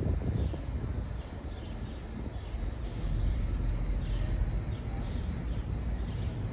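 Insects chirping in a steady high trill that pulses about three times a second, over a low rumbling noise.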